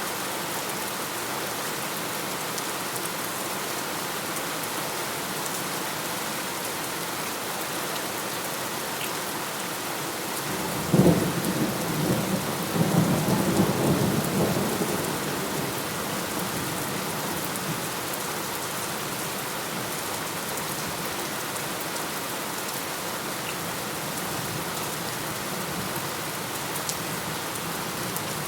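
Steady rain falling, with a sudden thunderclap about eleven seconds in that rumbles on for about five seconds before fading back under the rain.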